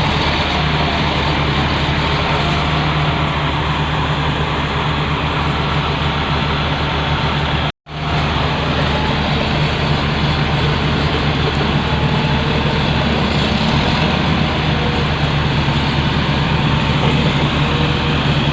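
Heavy diesel engine running steadily at a constant speed. The sound cuts out completely for a split second about eight seconds in, then resumes unchanged.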